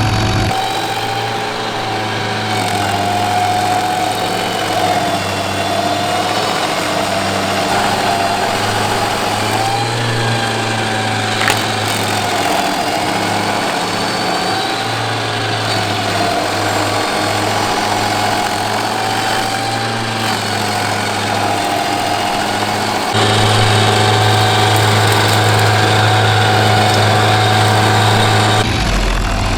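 Rayco RG55 stump grinder running under load while grinding a stump, a steady engine drone whose pitch dips and recovers again and again. A single sharp click about eleven seconds in, and the sound steps up louder about twenty-three seconds in.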